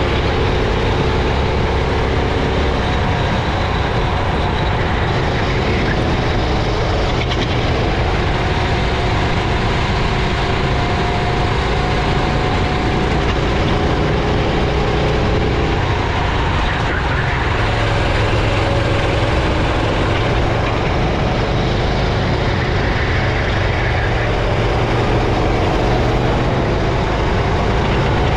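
Racing kart engine running hard, heard close up from the kart, its pitch rising and falling as the driver accelerates and lifts through the corners, over a steady hiss.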